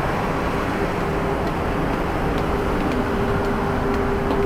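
Steady low rumble of a cruise ship's machinery and ventilation heard on the open deck, with a steady hum that comes in about a second in and grows stronger.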